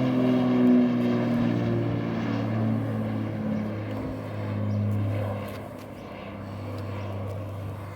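Twin piston engines and propellers of a landing Cessna 414 passing overhead: the droning engine note drops in pitch over the first two seconds as the plane goes by, then holds steady and fades as it moves away.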